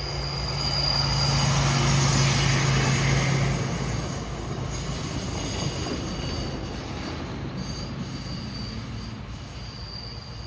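CSX hi-rail track-inspection truck running along the rails past the crossing. It grows louder, peaks about three seconds in and then slowly fades, with a steady low hum and a thin high whine.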